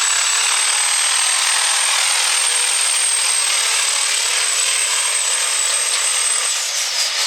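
Super stock diesel 4x4 pulling truck running flat out under load down the pulling track, a loud steady engine noise with a high turbo whistle over it. Near the end the whistle drops in pitch and the noise eases as the pull winds down.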